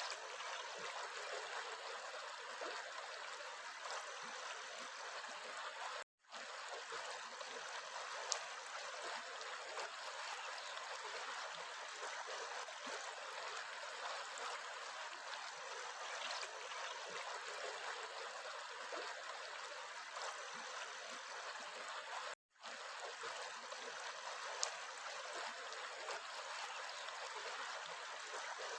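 Flowing stream water, a steady rushing with no speech. It cuts out for an instant twice.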